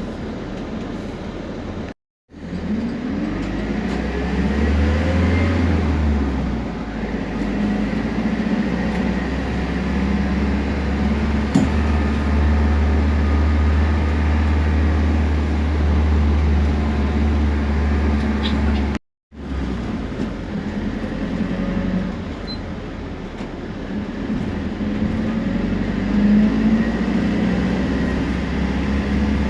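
Temsa Prestij SX midibus under way: a steady diesel engine drone with a whine from the turbo and differential that rises in pitch as it pulls away, twice. The sound cuts out completely for a moment just before each pull-away.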